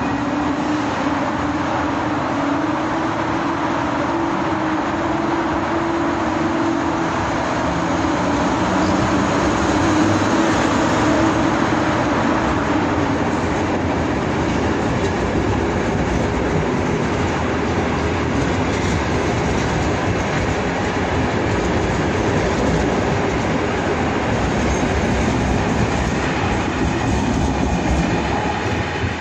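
Locomotive-hauled passenger train with Intercity coaches running past along a station platform, its wheels rumbling and clacking over the rails. A hum under the rumble slowly falls in pitch over the first dozen seconds.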